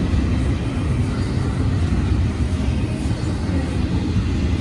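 Double-stack intermodal train passing close by: the steady rumble of its well cars' steel wheels rolling over the rails.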